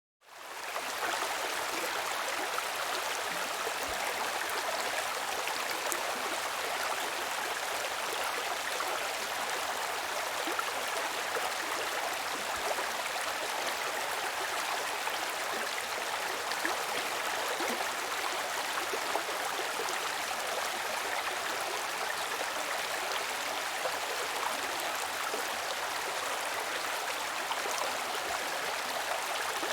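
Running water of a stream, a steady rushing and babbling flow that fades in over the first second.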